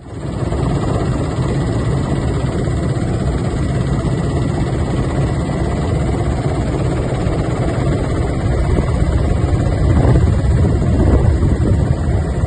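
Steady helicopter engine and rotor noise, loud and unbroken.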